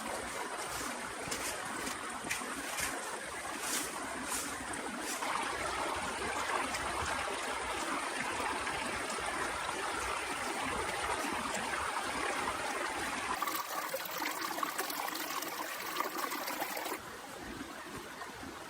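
Heavy rain falling steadily, with sharp drips in the first few seconds. The sound changes abruptly about 13 seconds in and again about 17 seconds in, where it drops slightly in level.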